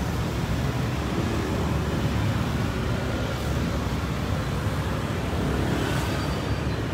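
BMW S1000RR superbike's inline-four engine running steadily, a continuous low rumble.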